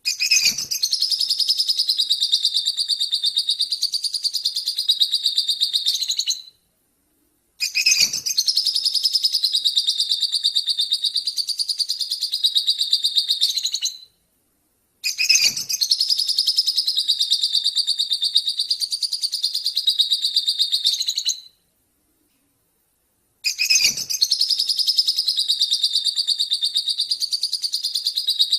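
Small songbird known to Indonesian bird keepers as 'lobert', singing a fast, high-pitched twittering song as a masteran (training recording). It comes in four long bouts of about six seconds, each starting with a faint click and separated by short silent gaps.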